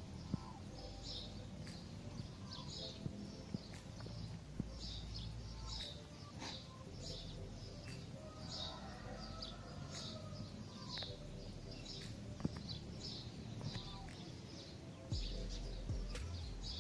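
Small birds chirping over and over, short high calls about twice a second, with low wind rumble on the microphone that drops away in the middle and returns near the end.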